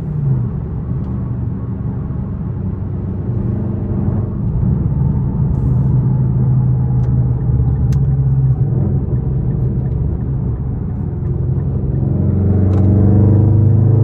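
Straight-piped Infiniti M56's 5.6 L V8 exhaust running under way with a deep, steady drone. The note grows louder about four seconds in, then rises in pitch and loudness near the end as the engine pulls harder.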